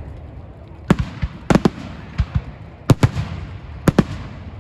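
Fireworks display: about eight sharp bangs of exploding shells, irregularly spaced and several in quick pairs, the first about a second in, over a steady crackling hiss.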